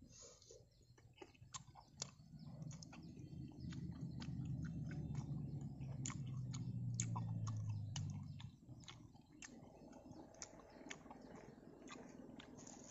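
Close-up chewing of a fried meatball snack, with many small sharp mouth clicks. A low rumble joins in from about two seconds in and fades out about a second before the end.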